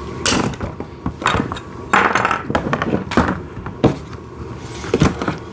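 Hard plastic parts clattering and knocking as they are handled and fitted together, in a string of irregular scrapes with two sharp knocks near the end.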